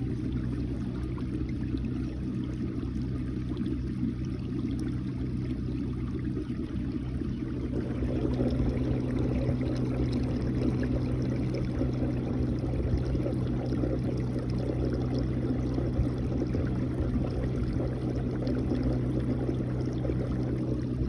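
Water moving and trickling around a kayak, with a steady low rumble underneath; the water noise grows fuller and a little louder about eight seconds in.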